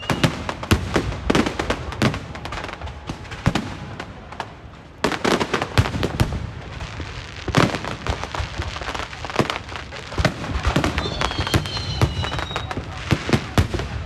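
Fireworks and firecrackers going off in rapid succession: a dense run of sharp bangs and crackles, with a bigger burst about five seconds in and another just before eight seconds. A brief whistle sounds near twelve seconds.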